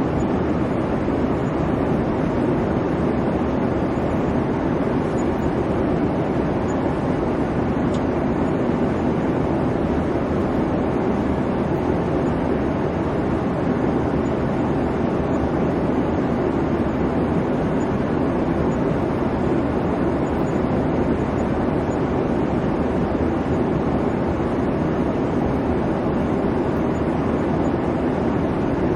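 Airliner cabin noise in flight: a steady, even rush of engine and airflow noise, heaviest in the low-mid range, with no changes.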